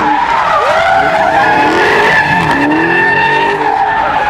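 A car's tyres squealing steadily as they spin on pavement, with the engine revving up several times underneath.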